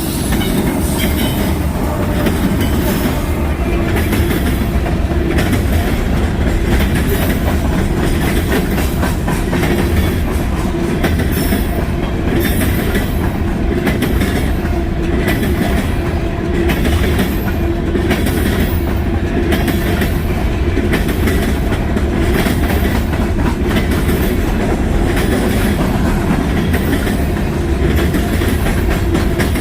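Freight train cars rolling steadily past close by, their wheels clattering with a fast, uneven run of clicks over the rail joints.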